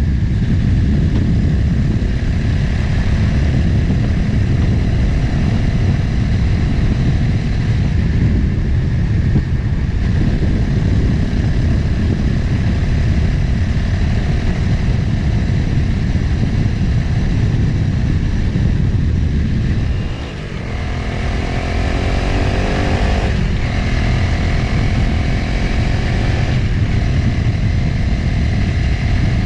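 Motorcycle engine running under way, with wind rush on the mic. About twenty seconds in the throttle eases briefly, then the engine revs climb, drop at a gear change about three seconds later, and climb again.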